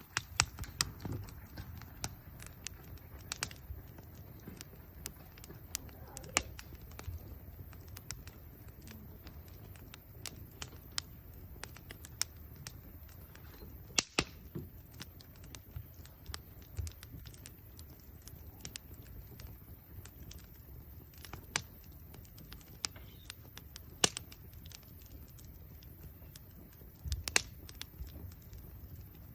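Wood campfire crackling: sharp, irregular snaps and pops over a steady low rumble of burning wood, with a few much louder pops scattered through.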